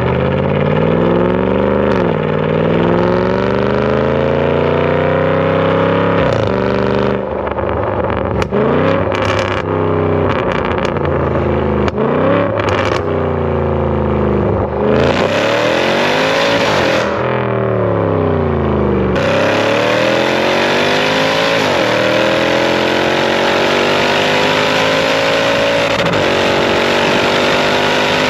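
Range Rover SVR's 5.0-litre supercharged V8 heard at the exhaust through a full titanium exhaust with 200-cell sport downpipes, accelerating hard. The revs climb and drop sharply at each upshift several times, then make one long steady climb near the end.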